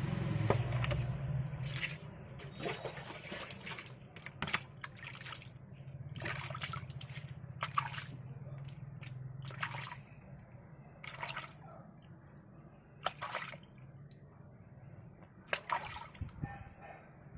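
Bath water sloshing and splashing in short bursts, about one a second, while a cat is washed.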